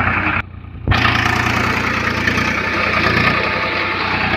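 Tractor engine running at a steady low rumble, cutting out briefly about half a second in and then carrying on.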